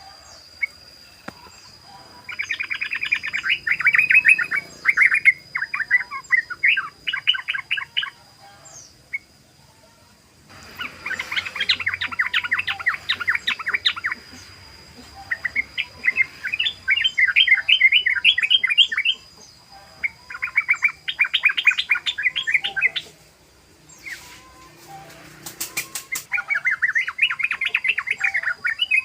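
Yellow-vented bulbul (trucukan) singing in its rapid 'ropel' style: five long bouts of fast, chattering, rolling notes, each a few seconds long, with short pauses between them.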